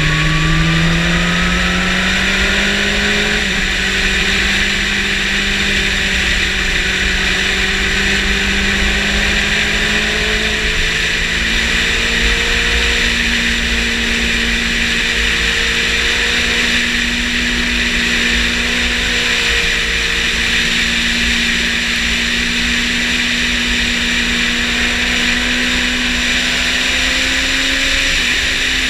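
Yamaha motorcycle engine running hard under throttle. Its pitch rises over the first few seconds, then holds nearly steady with a slight drop near the end. Heavy wind rush over the microphone runs throughout.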